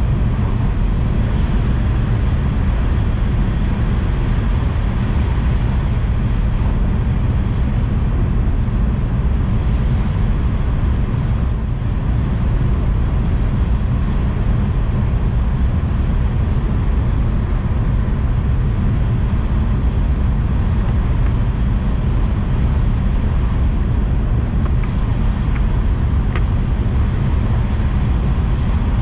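Tohoku Shinkansen bullet train running at speed, heard from inside the passenger car: a loud, steady rumble and rush of wheels, track and air, deepest in the bass, dipping briefly about twelve seconds in.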